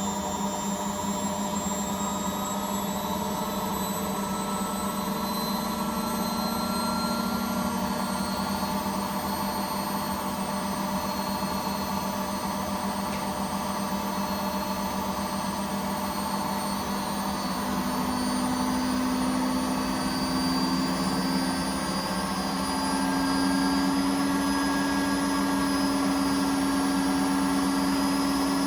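Washing machine motor running steadily on a quick wash, with a hum that steps up in pitch twice in the second half as the drum speeds up.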